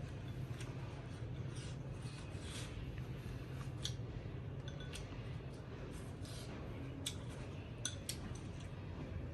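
Light clicks and clinks of utensils against bowls and dishes during a meal, scattered irregularly over a steady low hum.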